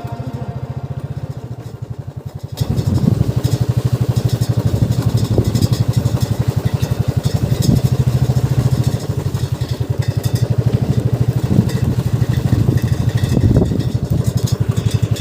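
Motorcycle engine running with a steady, rapid firing pulse, heard while riding; it gets clearly louder about two and a half seconds in and stays so.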